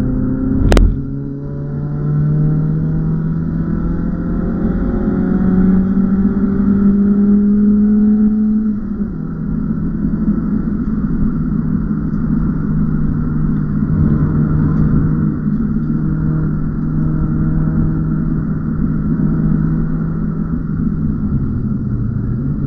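BMW E36 318is four-cylinder engine heard from inside the cabin on track: the revs climb steadily for several seconds after a sharp knock near the start, drop about nine seconds in, then hold at a steady drone.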